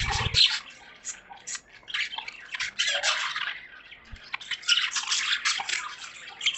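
A flock of caged budgerigars chirping and chattering in quick, scratchy bursts of warbling chirps, with a brief low thump right at the start.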